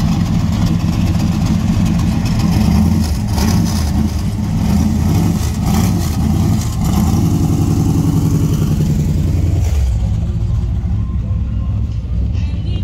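Mid-1960s Chevrolet Corvette Sting Ray's V8 running close by, loud through its side-exit exhaust pipes.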